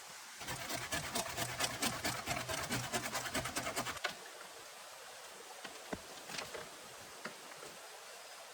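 Tool working wood: a fast, rough rasping of about ten strokes a second that stops after about four seconds, followed by a few scattered light knocks.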